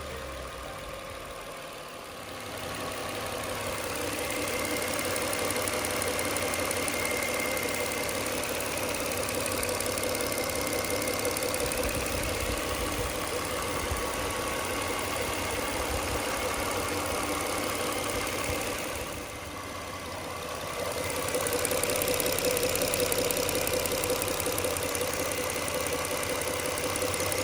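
Nissan Teana's V6 engine, freshly replaced, running steadily and evenly at idle. It dips briefly about two-thirds of the way through, then carries on a little louder.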